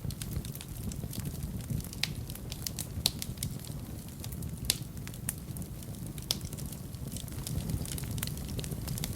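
Fireplace fire crackling, with irregular sharp pops, a few louder than the rest, over a steady low rumble of the flames.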